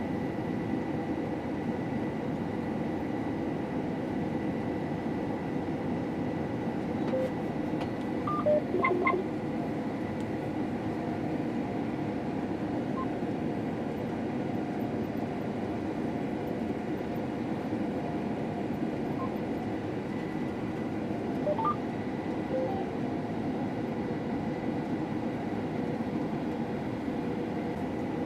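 Combine harvester running, a steady machine drone with a thin, steady high tone over it, and a few short electronic beeps about nine seconds in and again a little past twenty seconds.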